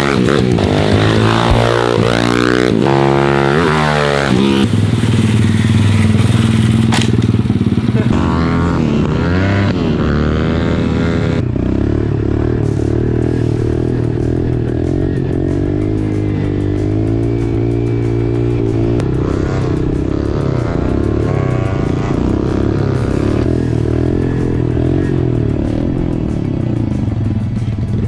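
Motorcycle engine revving up and down for the first few seconds, then running on at a steadier, wavering drone.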